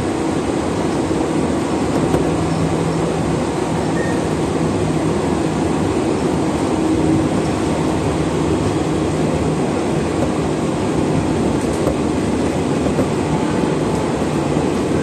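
Electric commuter train running between stations, heard from inside the passenger car: a steady rumble of wheels on rail with a low, even hum underneath.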